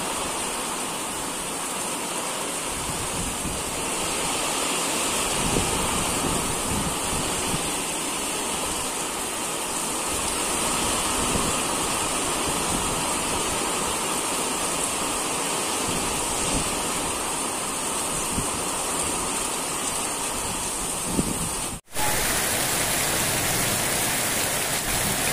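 Steady rain falling on a yard and puddles, an even hiss with no thunder. The sound cuts out for an instant near the end, then the rain goes on.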